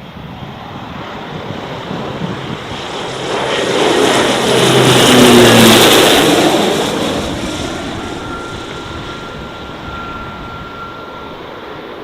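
A propeller aircraft flying past, its engine and propeller drone swelling to a loud peak about halfway through and then fading away, the pitch dropping slightly as it passes. Gusty wind rumbles on the microphone underneath.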